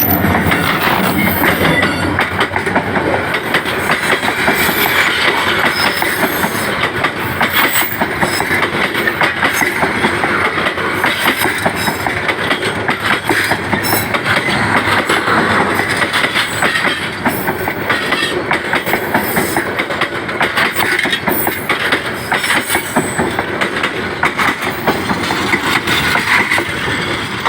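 Train running on rails: a loud, steady rush of wheel and track noise with a rapid stream of sharp clicks.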